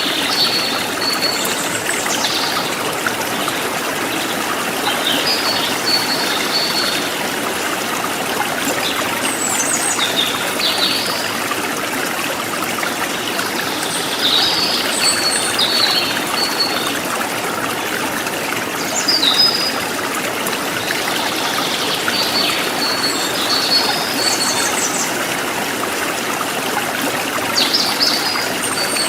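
River water flowing and trickling steadily, with short high chirps recurring every few seconds over the water.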